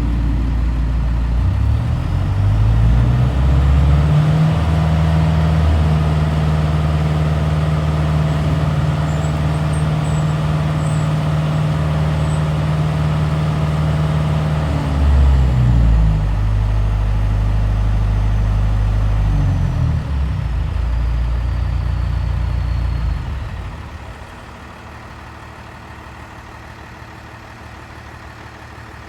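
Leaf collection truck engine running loud and steady. It speeds up a few seconds in and holds at a higher pitch, dips and shifts pitch twice in the middle, then drops to a much quieter level about 24 seconds in.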